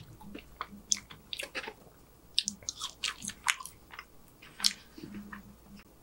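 A person chewing food close to the microphone: irregular crisp crunches and wet mouth clicks, with a few short low hums.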